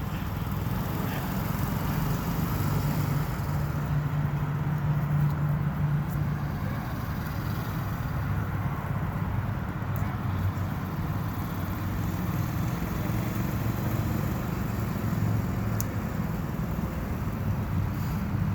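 Steady low rumble of motor-vehicle noise, like an engine running or traffic, with a brief steadier hum from about three to seven seconds in.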